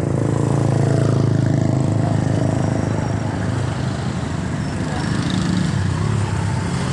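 A motor vehicle's engine running close by: a steady low drone that swells about a second in and again near the end.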